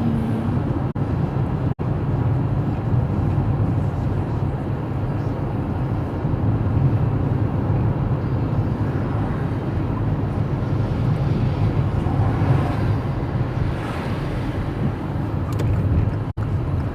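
A car driving on wet roads, heard from inside the cabin: steady engine and tyre rumble.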